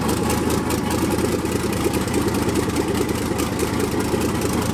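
Twin-turbo Fox-body Mustang engine running at a steady idle, loud and snotty, with a rapid uneven pulsing from its big, hogged-out cam.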